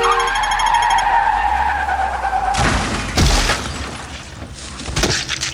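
A car horn cuts off at the start and tyres screech for about two and a half seconds, then a loud crash of a car hitting something. Another hard hit follows near the end.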